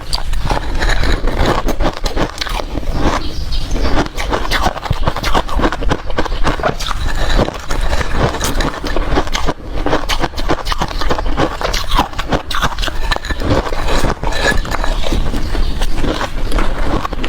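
Ice being crunched and chewed close to the microphone: a dense, unbroken run of cracks and crunches.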